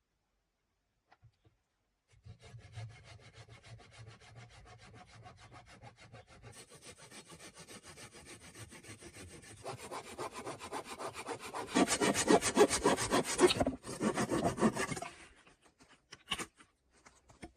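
Hand saw cutting through wood in steady back-and-forth strokes, growing louder and harder partway through and stopping a couple of seconds before the end, followed by a single sharp knock.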